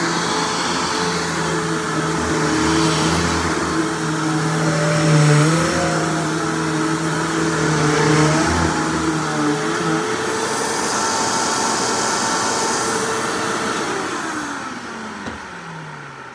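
Hoover WindTunnel Plus upright vacuum cleaner running loudly with a steady motor hum, its pitch wavering briefly a couple of times. Near the end it is switched off and the motor winds down, its tone sliding lower as it coasts to a stop.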